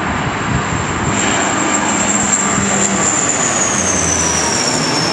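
Airliner's engines passing close, a steady roar with a high whine that drops in pitch over the last couple of seconds as the plane goes by.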